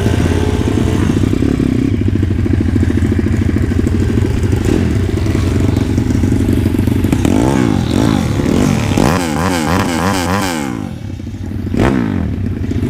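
Pit bike engines, small single-cylinder four-strokes, running loudly; from about seven seconds in the revs climb and drop over and over as the bikes accelerate and shift, with a brief dip around eleven seconds.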